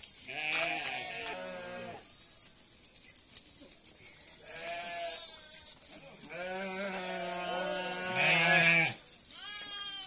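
Sheep bleating in a flock, several separate bleats. One comes about half a second in and another around five seconds. A long, loudest bleat runs from about six to nine seconds.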